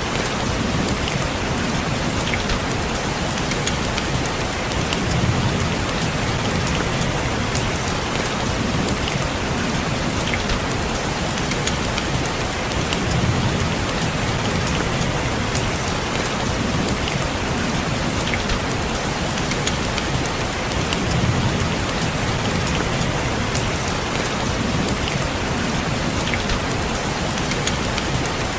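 Steady rain falling on a window, a dense hiss with many small drop ticks, under a low rumble that swells and fades every few seconds.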